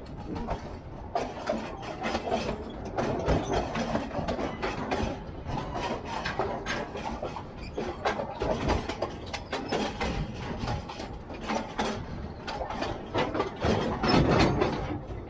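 Narrow-gauge train running along the track: a continuous, irregular clattering and rattling of wheels and carriage.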